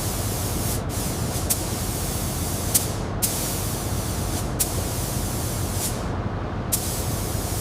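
Steady spraying hiss with a handful of brief breaks.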